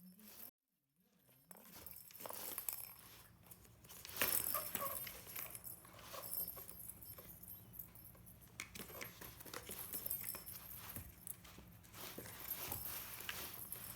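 Cats playing with a toy: irregular rustling, clicking and tapping of the toy and paws, louder in a few bursts after a brief gap near the start.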